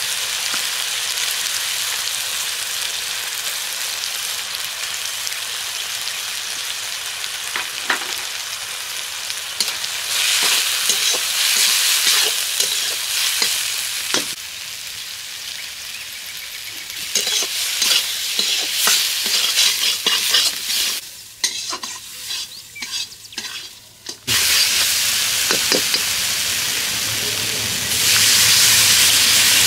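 Spice paste with tomatoes frying in hot oil in a kadai, sizzling steadily while a spatula stirs and scrapes the pan. The sizzle swells and fades several times, with a quieter, broken stretch about two-thirds through.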